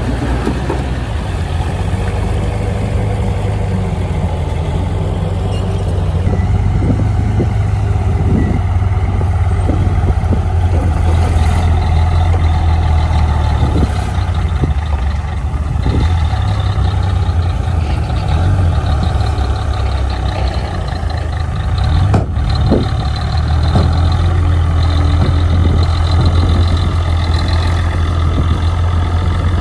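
Heavy earthmoving machine's engine running steadily with a deep hum, with scattered clanks and knocks, one sharper knock near the end.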